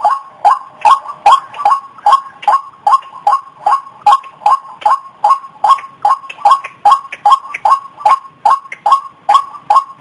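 White-breasted waterhen calling, a short harsh note repeated over and over at about two and a half a second, with no pause.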